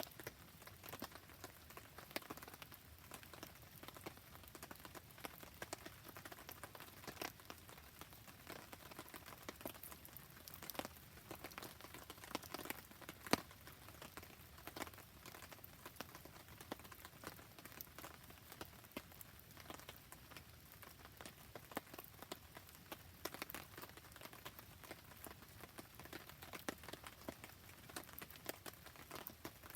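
Rain pattering steadily, mixed with the soft crackle of a wood campfire: many scattered sharp ticks and pops, one louder pop about 13 seconds in.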